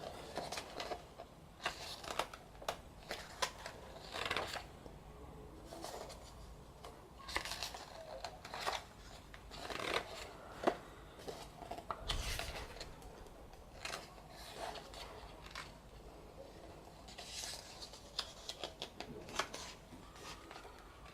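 Pages of a photo book being turned by hand one after another: irregular paper rustles and swishes, with crisp little snaps as each page is flipped.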